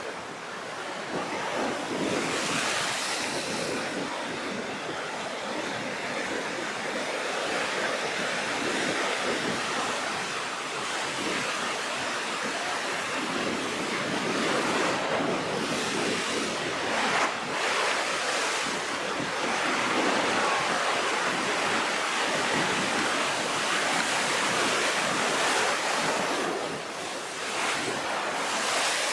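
Rough sea ahead of a typhoon: heavy surf breaking continuously, swelling and easing in repeated surges, with wind.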